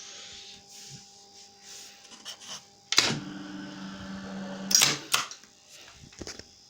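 Sauter 0.5.480.020 tool turret indexing. A sharp click about three seconds in, then its drive motor hums steadily for nearly two seconds while the turret turns, and a loud clunk as it stops and locks. A few lighter clicks come before and after.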